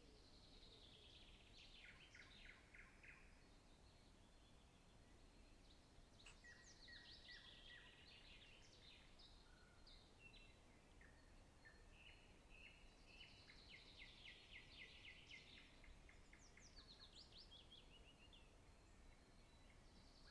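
Faint birdsong: a songbird sings short phrases of falling, trilled notes about four times, over a low background hiss.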